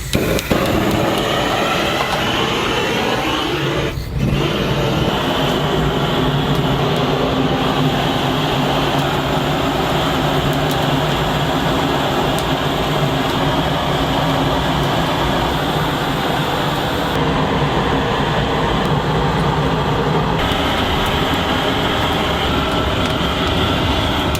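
Loud steady machine drone: a low hum with a hiss above it, with a brief break about four seconds in.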